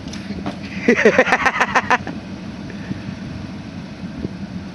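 John Deere tractor engine turning over on a cold start and firing a rapid run of pops, about eight a second, for about a second before dying back to a steady low hum. It does not catch and run, with the fuel supply not hooked up.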